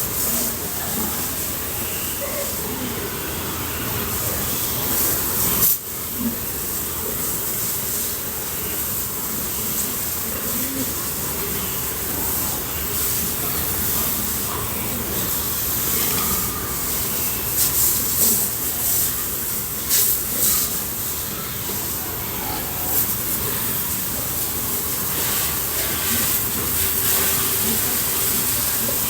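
Steady hiss of water spraying from a hose, as in washing pigs in their pen, breaking off for an instant about six seconds in.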